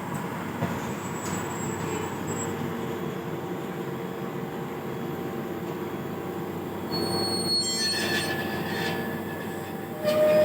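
Train running on the rails with a steady rumble, and high-pitched wheel squeals about seven seconds in.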